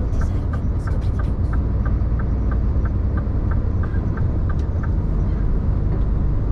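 Scania truck running with a steady low rumble. A light, regular ticking comes about three times a second and stops a little before five seconds in.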